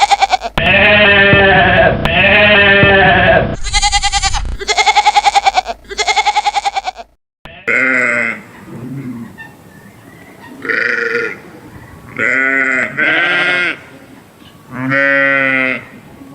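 Repeated bleating of small livestock, goats or sheep. The first half holds long quavering bleats. It cuts off about seven seconds in, and a second recording follows with shorter bleats a second or two apart.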